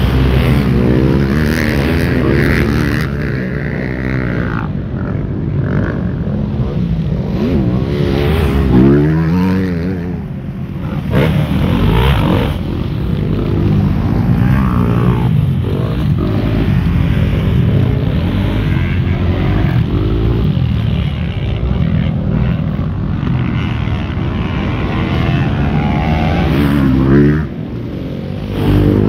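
Motocross bike engines running and revving, their pitch rising and falling again and again, with a brief drop in level about ten seconds in and again near the end.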